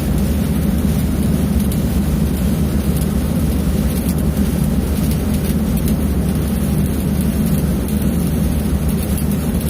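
Stick welding arc crackling and sizzling steadily as a downhand capping pass is laid, with a steady low hum underneath.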